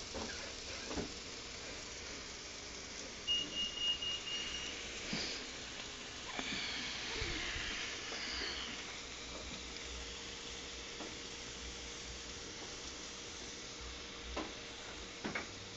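Chicken, broccoli and cauliflower sizzling steadily in a small frying pan, with a few sharp knocks, including a cluster about three seconds in and a couple near the end.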